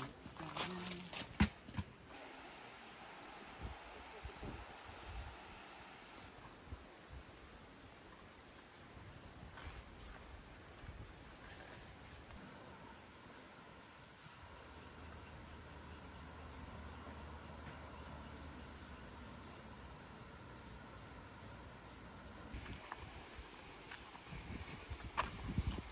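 Insects chirring in a steady, high-pitched chorus, with a fainter insect chirping at an even pace beneath it. A few short knocks sound in the first two seconds and again just before the end.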